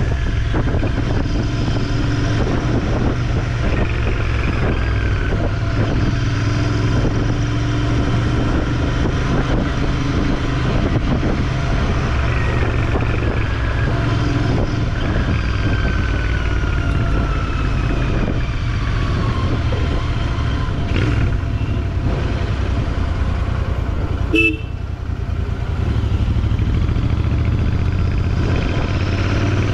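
Motorcycle on the move: steady engine and road rumble with wind on the microphone, a few falling pitch glides in the middle, and a sudden click with a short drop in level about three-quarters of the way through.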